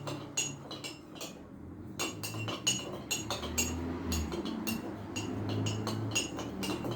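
A spoon clinking quickly and repeatedly against the inside of a cup while stirring, about three or four clinks a second, with a short pause about a second in. The stirring is dissolving coarse sea salt into lime juice.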